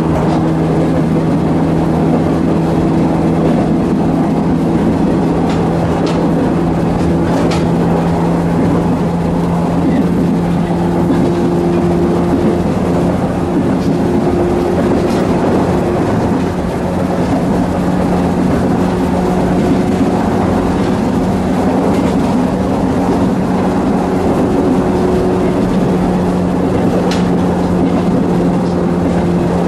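Running noise inside a JR West 105 series electric train under way: a steady hum and whine from the motors and gearing over the rumble of wheels on rail, its pitch edging up a little partway through. A few faint clicks come through.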